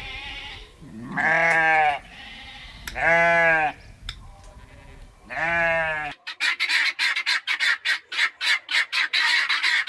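Three long, bleating calls from goat- or sheep-like livestock, each rising and then falling in pitch. About six seconds in, a fast run of short, sharp calls takes over, about four or five a second.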